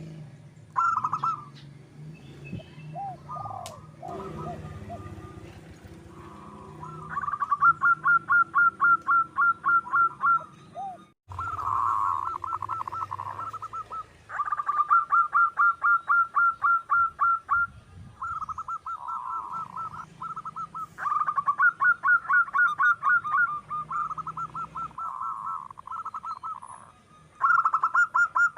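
Zebra dove (perkutut) cooing: repeated bouts of rapid staccato coo notes, each bout lasting a few seconds, with short pauses between bouts.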